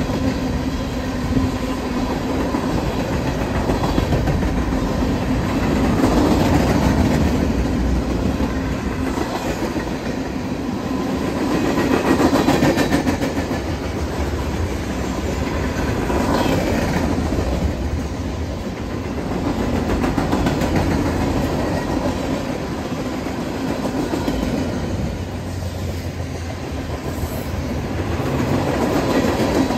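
Freight train of covered hopper and tank cars rolling past, its steel wheels rumbling and clicking over the rails in a steady stream, the sound swelling and easing every few seconds as the cars go by.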